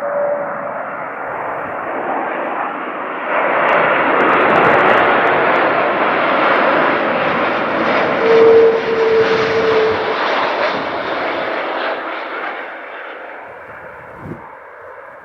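Rolls-Royce Trent 700 engines of an Airbus A330-300 airliner coming in to land, the jet noise swelling loud as it passes close by and fading away over the last few seconds. A steady whine stands out briefly in the middle of the pass.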